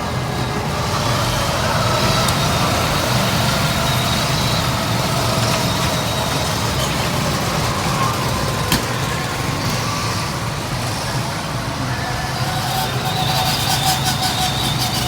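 Go-kart engines running in a steady drone, with faint wavering whines over it and a single sharp tick about nine seconds in.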